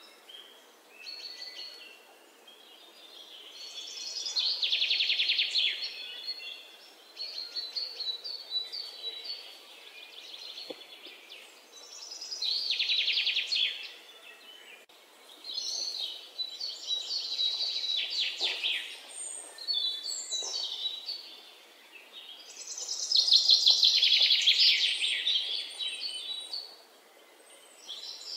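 Songbirds singing: three long rapid trills of about two seconds each, with shorter high chirps in between.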